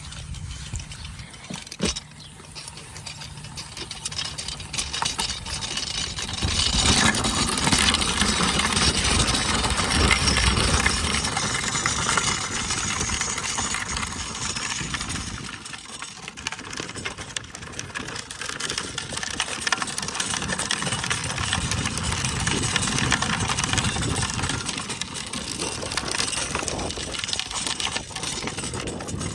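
Rushing noise of a pedal trike being ridden along a road, steady and louder from about seven seconds in.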